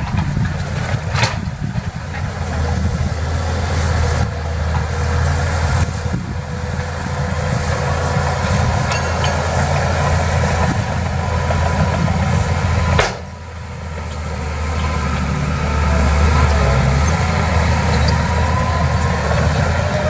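Heavy earthmoving machinery engine running with a steady low rumble, sharply quieter for a moment about two-thirds of the way through, then building back up.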